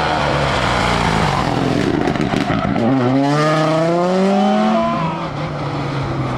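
Rally car engine at speed: its note drops off briefly in the first second, then climbs hard under full throttle from about three seconds in, before settling near the end.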